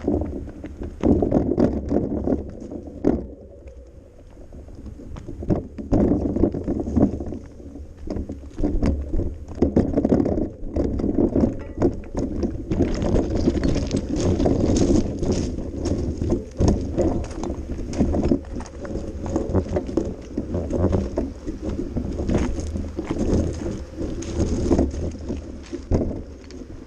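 Bicycle rolling over a rough dirt path, heard from a camera on the bike: a continuous low rumble that rises and falls, full of small rattles and knocks.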